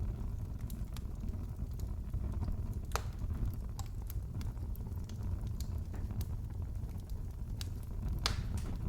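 Wood fire crackling in a fireplace: scattered sharp pops and snaps over a low, steady rumble of the flames, with louder pops about three seconds in and near the end.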